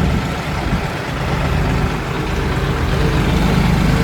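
Tractor engine running with a steady low rumble, a little louder toward the end.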